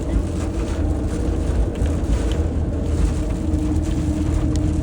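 Steady car-interior noise while driving: a low engine and tyre rumble with a constant hum, and a few faint ticks over it.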